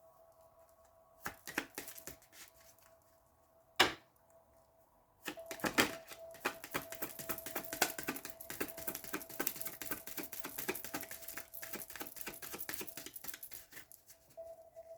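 A deck of Kipper fortune-telling cards being shuffled: a few card snaps and a sharp slap of the deck in the first four seconds, then about nine seconds of rapid, continuous clicking and rustling shuffling. A faint steady tone hums underneath.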